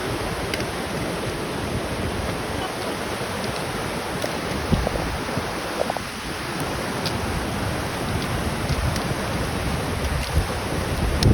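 Wind buffeting the microphone over a steady rushing noise, with a few faint clicks and a louder low thump near the end.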